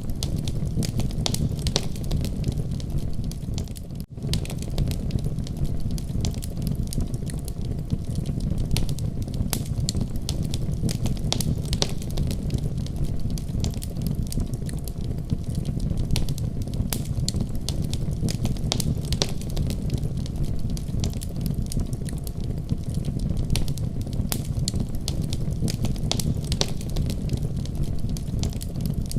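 Wood fire crackling: a steady low rumble of flames with frequent sharp crackles and pops, and a brief drop in sound about four seconds in.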